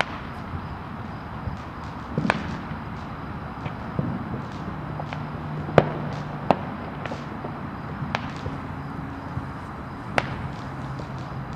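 Distant fireworks going off: scattered sharp pops and bangs, the loudest about six seconds in, over a steady background rumble. A low hum comes in partway through.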